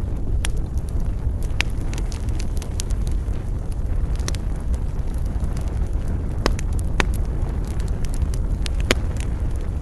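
Wood fire in a fireplace crackling, with sharp pops now and then, the loudest about two-thirds of the way in and near the end, over a steady low rumble.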